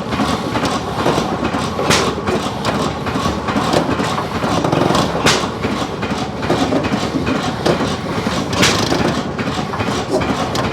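Hit-and-miss engine running, a steady mechanical clatter with a sharp crack about every three seconds, while a hand is held over its carburetor intake.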